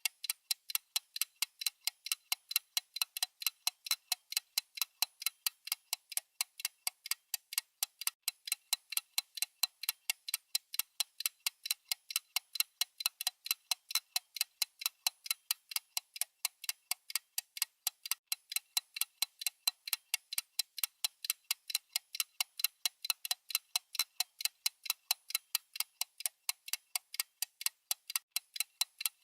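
Clock-style ticking sound effect of a digital countdown timer: a steady, even run of sharp, high ticks, several a second, with no change in pace.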